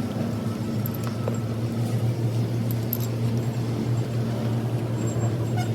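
Diesel engine running steadily, a low even hum with a fine regular pulse, with a few faint metallic ticks over it.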